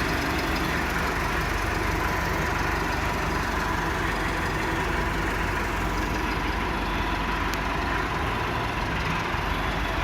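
Massey Ferguson 375 tractor's four-cylinder diesel engine running steadily at low revs.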